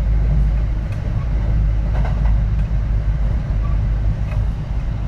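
Kintetsu 3220 series electric train running between stations: a steady low rumble of wheels on rail with a few faint ticks.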